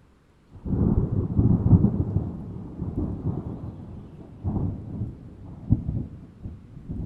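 Thunder sound effect: a clap breaks in suddenly about half a second in and rolls on as a low, crackling rumble, swelling again later with a sharp crack near the end.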